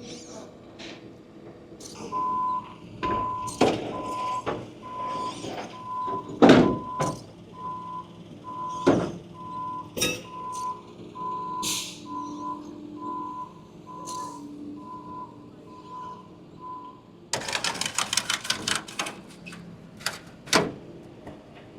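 A vehicle's reversing alarm beeps steadily, about one and a third beeps a second, starting about two seconds in and stopping a few seconds before the end. Scattered metal knocks and clanks sound throughout, and near the end there is a quick run of sharp clicks.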